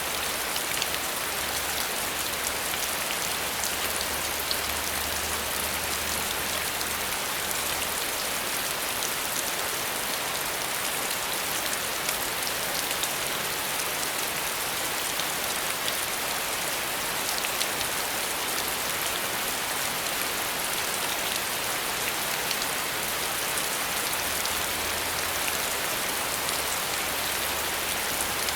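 Steady rain falling, with many individual drops hitting a surface, at an even level throughout.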